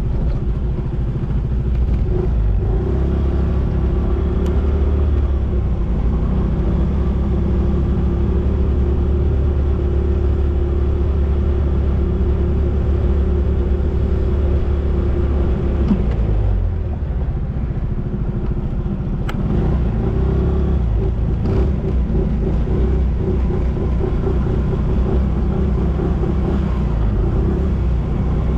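Motorcycle engine running at a steady road speed, heard from the bike with heavy low road and wind rumble. About sixteen seconds in the engine eases off briefly, then picks up again.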